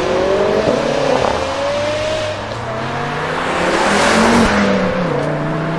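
Jaguar F-Type SVR's supercharged V8 accelerating hard, its engine note climbing and then stepping down sharply once about four and a half seconds in.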